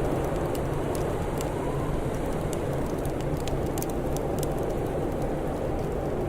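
Wood fire crackling, with scattered sharp pops over a steady low rush of blizzard wind.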